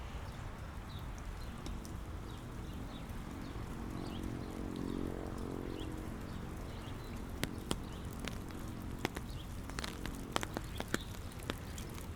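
Steady rain falling, with a low hum swelling and fading around the middle. From about halfway on come sharp close drips or taps.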